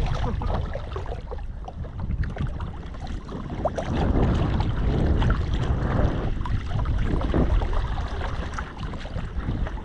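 Wind buffeting the microphone over shallow water sloshing and splashing around a wader and a kayak.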